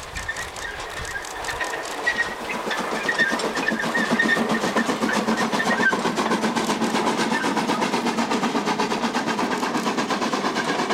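Narrow-gauge steam freight train passing close by: a string of hopper wagons rolls past with a rapid, even clatter of wheels on the rails, growing louder over the first few seconds, with thin high squeals about two to four seconds in.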